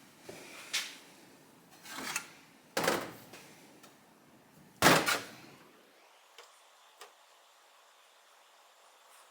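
Several separate knocks and clatters of parts and tools being handled on a workbench during motorcycle fork reassembly, the loudest about five seconds in. A couple of faint ticks follow.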